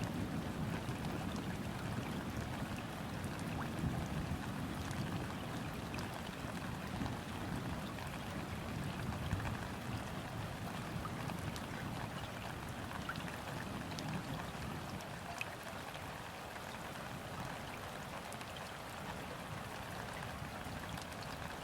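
Steady gentle rain falling on a river's surface: a continuous hiss with scattered individual drop ticks. A low rumble underneath is heavier in the first half and eases off over the second half.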